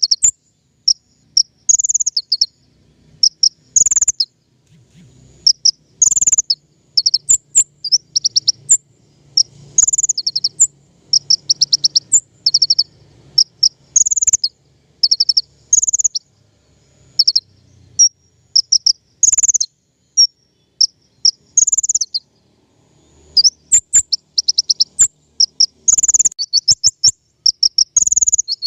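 Kolibri ninja (a sunbird) singing: short, high-pitched phrases of sharp chirps and fast ticking trills, repeated every second or two with brief gaps.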